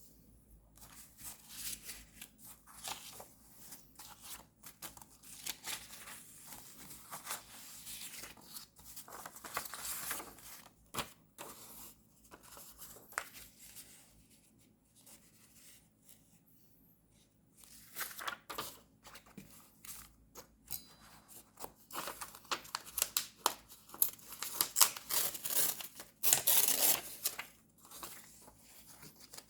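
Paper and stickers being handled for journal decorating: irregular tearing and rustling, some of it like scissor snips, with a quieter lull about halfway through.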